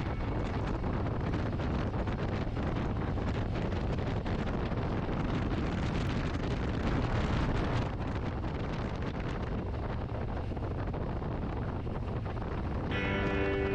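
Wind rushing over the microphone on a Harley-Davidson motorcycle at road speed, with the engine running low underneath. Music with steady tones comes in near the end.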